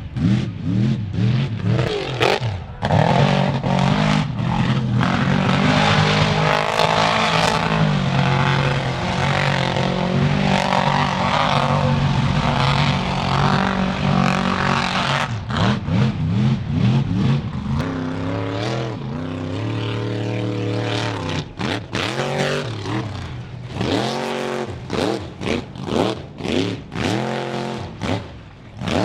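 Truck engines revving hard, their pitch climbing and dropping repeatedly, with quick rev sweeps over the second half.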